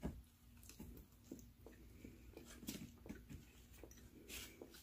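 Faint chewing: soft, irregular wet mouth clicks as a mouthful of food is chewed with the lips closed.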